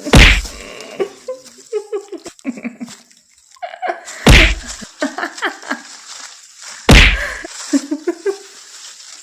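Three loud, heavy thuds with a deep boom, the second about four seconds after the first and the third about three seconds later.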